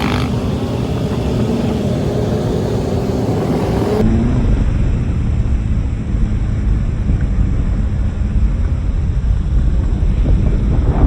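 Motorcycle engine running with a steady pitch that shifts slightly. After a cut about four seconds in, a heavy low rumble of wind buffeting the microphone while riding.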